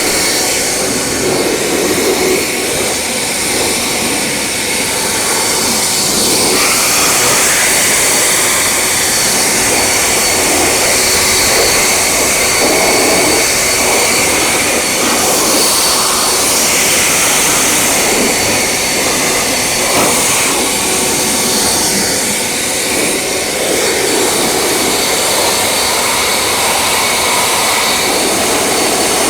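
A motor-driven piece of car-wash equipment, such as a blower, vacuum or pressure washer, running steadily: a loud rush of air or spray with a thin, steady high whine over it and small shifts in tone as it is moved about.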